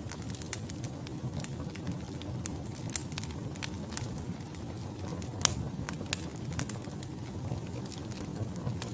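Wood logs burning in a fireplace: a steady low rumble of the flames with irregular sharp crackles and pops, two louder pops about three and five and a half seconds in.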